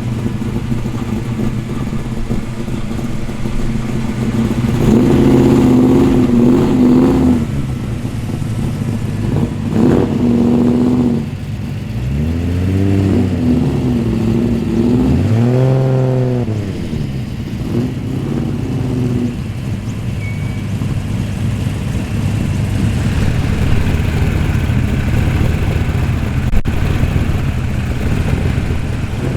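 V8 muscle car engines burbling at low speed, with several short revs that rise and fall in pitch.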